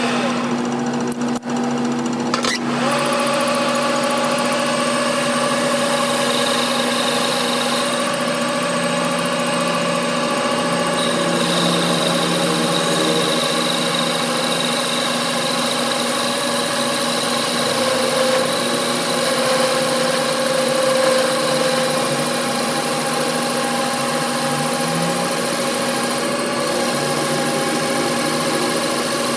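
A workshop machine running steadily, a constant hum with a higher whine over it, settling into its steady note about two seconds in after a couple of knocks.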